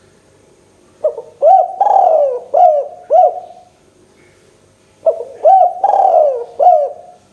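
Spotted dove (tekukur) cooing: two loud song phrases, each a run of about five short, rising-and-falling coos, the first about a second in and the second about five seconds in.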